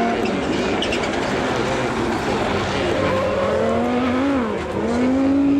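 Rallycross Supercar engines racing at high revs, the pitch rising and falling as the drivers work the throttle and gears, with a sharp dip and climb in revs near the end.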